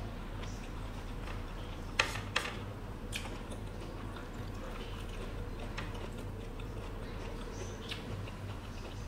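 A person chewing food close to the microphone, with a few sharp mouth clicks and smacks, the loudest two about two seconds in, over a low steady hum.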